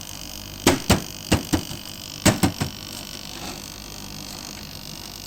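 Blyss dehumidifier running with a steady hum, carrying an unexplained noise that the owner is trying to trace and wonders may be the fan. About seven sharp knocks come in two quick groups in the first three seconds.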